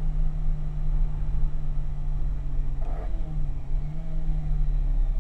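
Ferrari 308 GTB's V8 engine running at steady revs on the move, heard from inside the cabin over a low road rumble. The engine note dips briefly about three seconds in, then picks back up.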